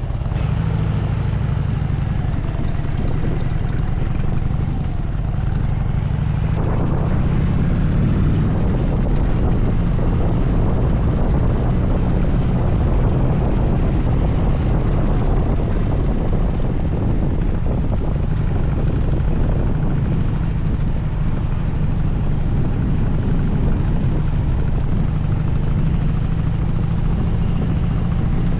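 Harley-Davidson Dyna Super Glide's V-twin engine running steadily under way, picking up a little about seven seconds in.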